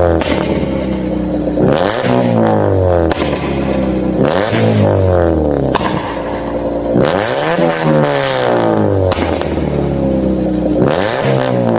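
A tuned performance car engine is revved hard over and over, its pitch climbing and dropping back every two to three seconds. Sharp exhaust pops and bangs crack out as the revs fall.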